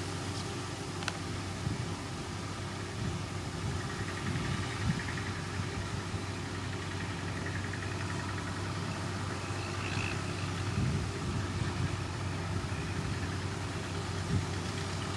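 Motor grader's diesel engine running steadily at an even pitch.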